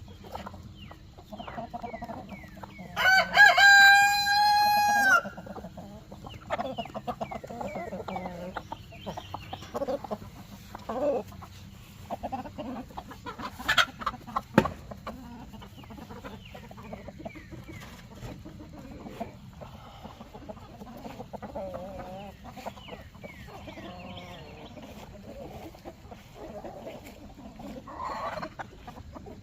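Backyard chickens clucking, with a rooster crowing once about three seconds in, a long two-second call that is the loudest sound. Short high peeps scatter throughout, and there is one sharp click near the middle.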